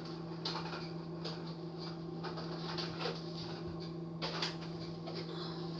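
Household objects being handled: scattered small clicks and knocks, a louder knock about four seconds in, over a steady low hum.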